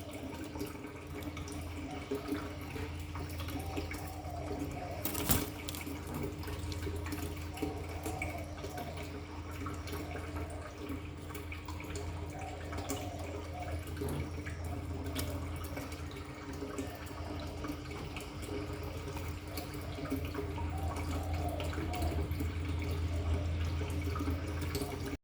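Spotted dove cooing: short phrases of coos repeated every few seconds, over a steady low hum, with one sharp click about five seconds in.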